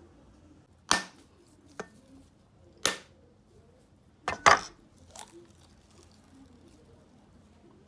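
Sharp, separate knocks of kitchen work, about five strikes spread irregularly, with the loudest a close pair about halfway through.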